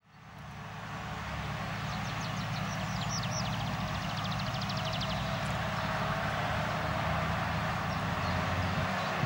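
UAZ-469 off-roader's engine running low and steady as it drives, fading in at the start. A bird sings a quick run of high chirps during the first few seconds.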